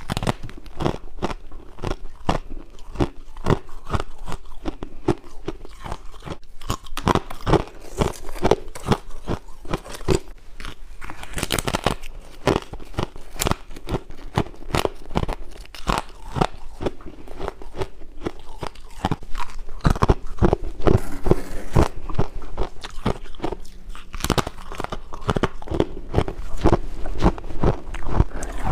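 A person biting and chewing frost ice close to the microphone: a dense, irregular run of sharp crunches.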